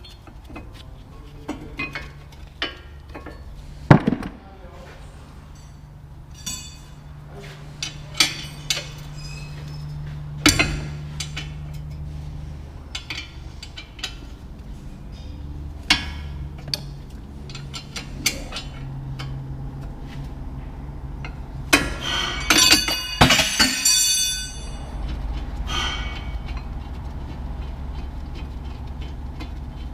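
Metal hand tools and parts clinking and knocking at irregular intervals, with a burst of louder metallic clattering about three-quarters of the way through.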